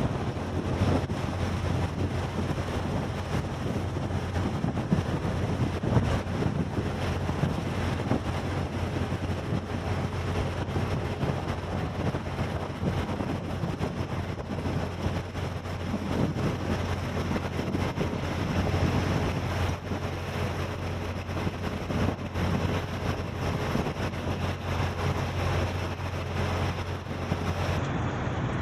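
Wind buffeting the microphone over the steady low drone of a ship's engine, with sea noise. Near the end the sound cuts to a duller version of the drone.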